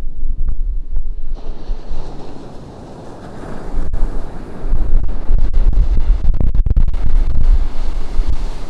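Ocean surf breaking and washing up the shore. A wave's hiss swells in about a second and a half in, and heavy wind buffets the microphone with low rumbling gusts.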